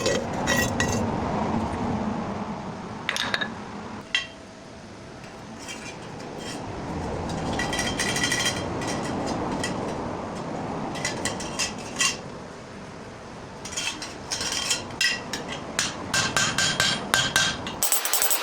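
Hammer striking the sheet-metal shell of a car muffler, with sharp metallic clanks that ring on, coming singly and in quick clusters over a steady background noise.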